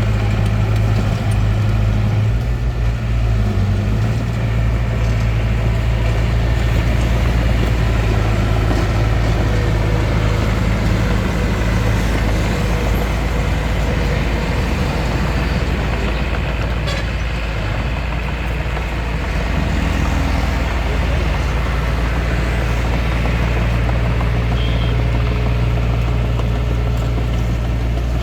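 Bulldozer's diesel engine running steadily, a low, even engine note with faint steady higher tones above it.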